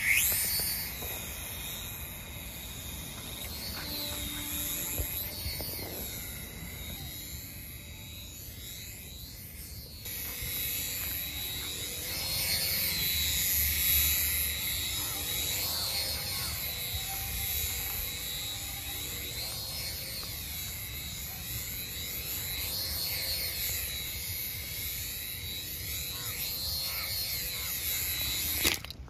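Small electric motors and rotor of a two-channel RC toy helicopter running at a high whine, the pitch repeatedly rising and falling as the throttle changes. It starts suddenly and cuts off just before the end.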